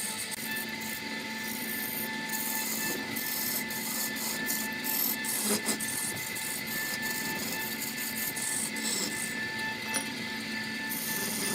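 Wood lathe running while a hand-held turning tool cuts a large spinning wooden spindle: a steady machine tone under the scraping hiss of the cut, the hiss coming and going in short spells.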